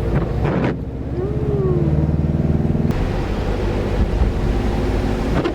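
Car engine running with a steady low rumble, as heard while driving.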